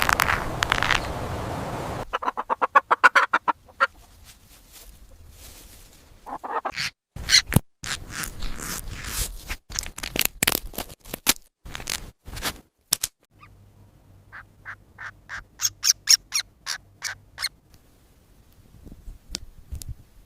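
Short, sharp bird calls in several quick runs, separated by gaps.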